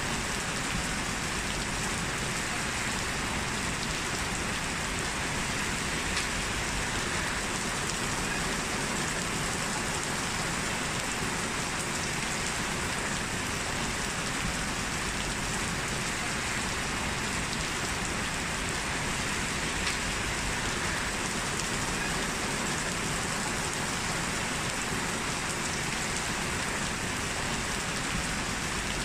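Steady rain falling, with the patter of drops on a surface.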